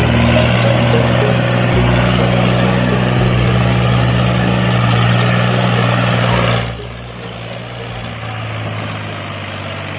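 A small motor runs with a steady whirring hum. About two-thirds of the way through it drops noticeably in level and carries on more quietly.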